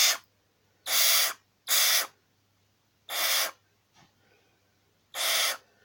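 Barn owl hissing in a string of short, harsh breathy bursts, about five in six seconds, each roughly half a second long: the owl's grumpy, defensive hiss rather than its contented chuckle.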